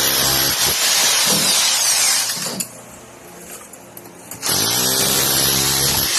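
Harbor Freight 1-inch SDS Plus rotary hammer chiselling into the mortar joints of a concrete block wall. It runs, stops for about two seconds near the middle, then spins back up with a rising whine and hammers again.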